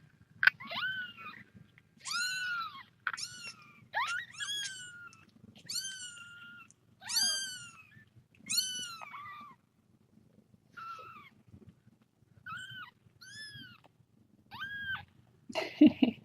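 Very young kittens mewing over and over: about a dozen short, high-pitched calls that rise and fall, with pauses between them. A short rustling noise comes near the end.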